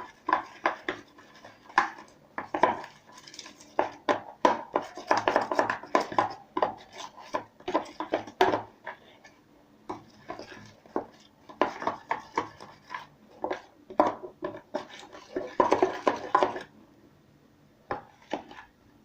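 Spoon or utensil stirring and scraping around a plastic tub of thickening slime, in quick irregular clicks and knocks that pause now and then and stop about three seconds before the end.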